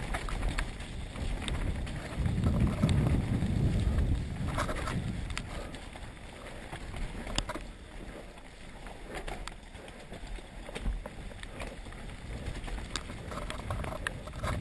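Wind rumbling on the microphone, strongest a couple of seconds in, with scattered small clicks and knocks.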